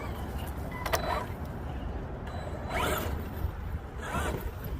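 Odd mechanical noise from an Arrma Outcast 8S RC truck's drivetrain: three short grinding sounds about a second and a half apart, over wind rumble on the microphone. The owner fears that it comes from a differential.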